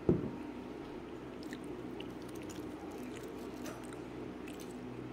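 A single sharp knock right at the start, then a person chewing food, faint small mouth clicks over a steady low hum.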